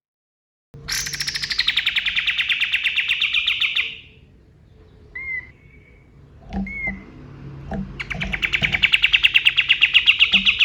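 A kapas tembak singing: two long, rapid rattling trills, each about three seconds, the first starting high and settling lower, the second growing louder. A few short chirps and soft knocks fall in the gap between them.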